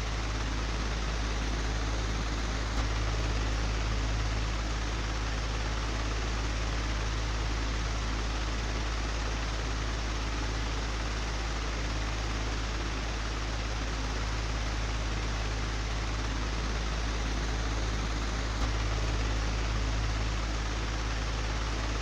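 Old electric fan running steadily: a low hum under an even rush of air, with a faint tick about three seconds in and another later on.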